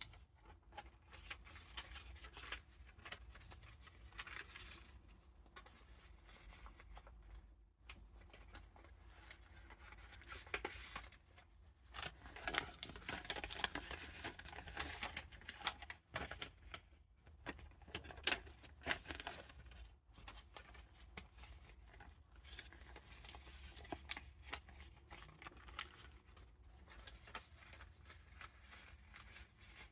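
Paper pages of a handmade junk journal being turned and handled: soft rustling and crinkling with small flicks and taps, busiest about halfway through, over a low steady hum.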